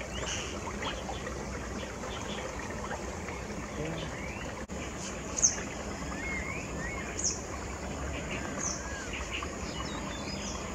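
Birds calling outdoors: scattered short high chirps and a few brief whistled glides over a steady background hiss, the loudest chirp about five seconds in.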